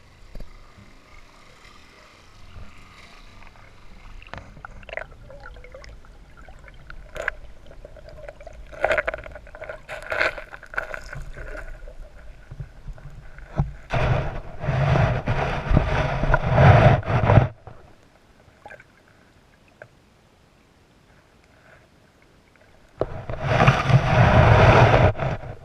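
Creek water splashing and gurgling close to the camera, with scattered knocks and clicks. It swells twice into loud, rushing splashing, once for about three seconds past the middle and again briefly near the end, with a near-quiet lull between.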